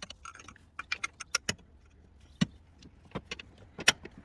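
Sharp, irregular metallic clicks and clinks of hand tools: a ratchet with a spark plug socket and extension being worked in a deep plug well of the engine to undo a spark plug.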